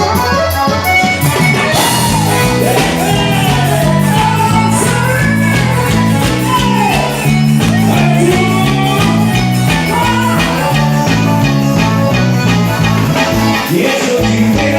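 Forró band music: a bass line stepping under steady, even percussion, with melodic lines that bend in pitch above.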